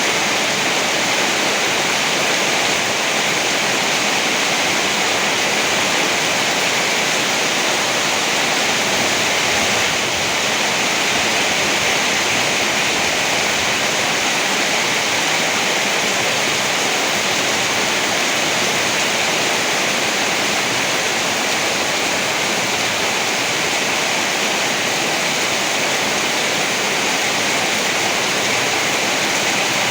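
Heavy rain falling steadily, an even hiss with no thunder claps or gusts.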